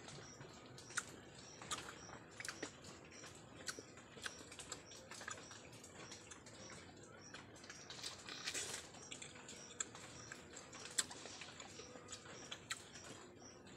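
Close-up chewing of raw wild honeycomb: irregular clicks and small crunches of wax in the mouth as it is chewed.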